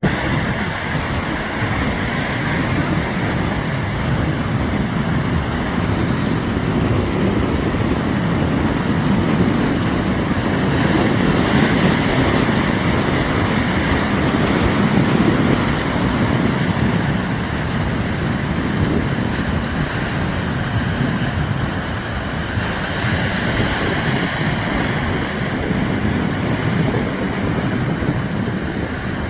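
Strong storm wind blowing across the microphone: a steady low rush of noise.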